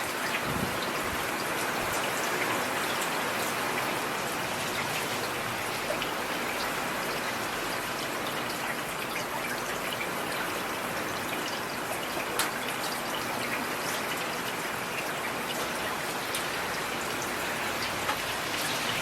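Steady rain falling, an even hiss of many drops with scattered single ticks and one slightly louder tick about twelve seconds in.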